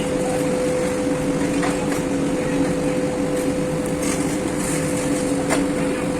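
Steel furnace and plant machinery: a loud, steady industrial din with a constant hum underneath and a few faint clicks.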